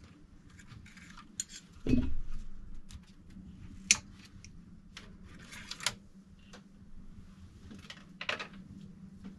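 Unboxing handling noises: packaging and parts being moved about, with scattered clicks and short rustles and one heavy thump about two seconds in.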